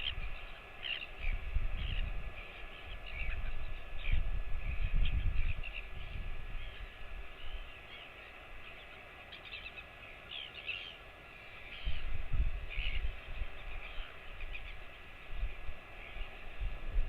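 Bird calls: short, high chirps repeating at irregular intervals, over dull low rumbles that come and go several times.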